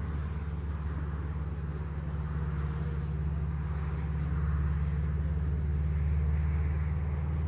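Steady low hum of a crowded honeybee colony buzzing at its opened hive.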